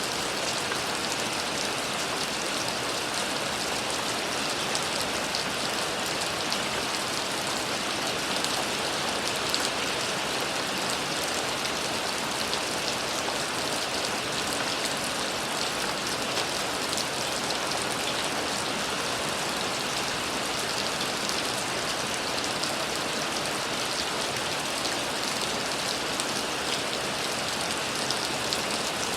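Steady rain falling, an even hiss with many fine drop patters and no let-up.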